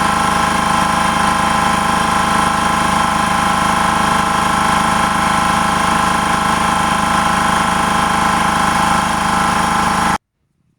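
Klutch 29-gallon electric air compressor running steadily, its pump building tank pressure up toward about 175 psi. The steady machine hum cuts off abruptly near the end.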